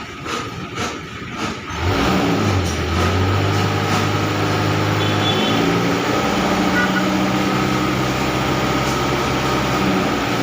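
Engine being revved during a carbon-cleaning (decarbonization) treatment: it runs quietly for about two seconds, then picks up sharply and holds a steady fast speed, stepping up to a higher pitch about halfway through.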